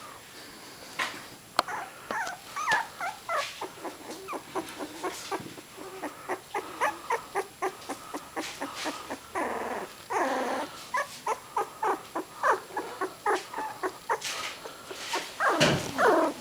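A litter of three-week-old miniature dachshund puppies squawking, a rapid run of short high cries, several a second from more than one pup. They are crying for their mother after being taken away from her.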